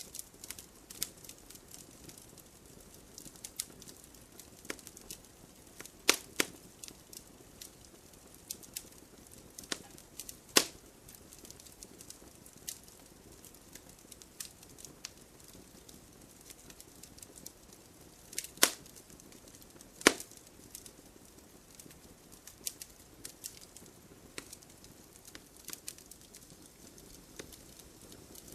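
Wood campfire crackling: a steady run of small, sharp crackles over a soft hiss, with a few louder pops, the loudest about a third of the way in and again about two-thirds of the way in.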